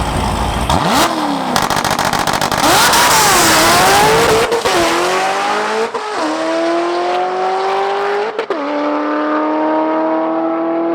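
Drag race car accelerating hard down the strip. The engine's pitch climbs and then drops sharply at each of three gear changes, with a brief break in the sound at each shift.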